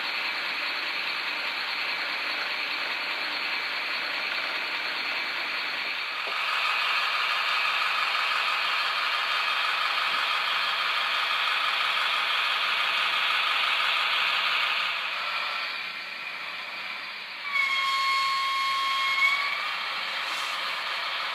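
Sound-equipped Bemo MK45 model locomotive running, its decoder's engine sound and the motor's whirr heard through a small speaker, growing louder about six seconds in. Near the end its horn sounds once, a steady tone held for about two seconds.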